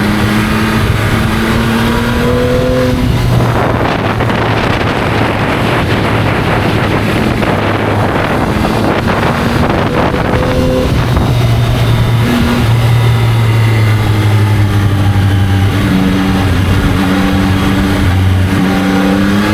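Yamaha motorcycle engine on the move, its note rising as it accelerates. From about three and a half to ten seconds a rush of wind noise covers it, then the engine note returns, stepping up and down in pitch.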